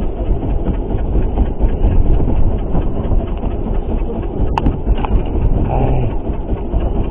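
Steady low rumble of a fishing boat's engine running at sea, with a sharp click about four and a half seconds in.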